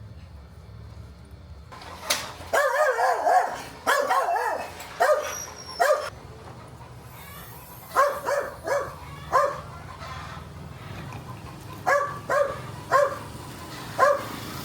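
A dog barking in bouts: a quick flurry of barks a couple of seconds in, then runs of four or five sharp barks a few seconds apart.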